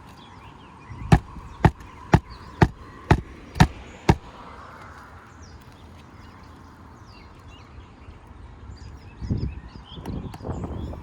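Hammer driving a roofing nail into a shingle: seven sharp strikes about two a second, then it stops. Birds chirp faintly, and there is a low rustle near the end.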